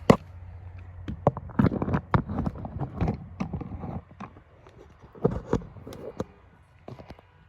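Handling noise of a camera being mounted on a tripod: a run of knocks, clicks and scrapes, thinning out after about four seconds.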